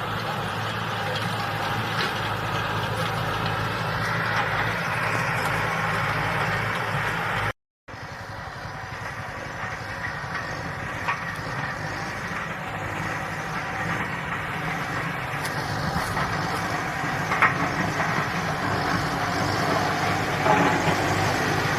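Big tractor's diesel engine running steadily as it plows, cut off completely for a moment about a third of the way through, then going on a little louder with a few short knocks.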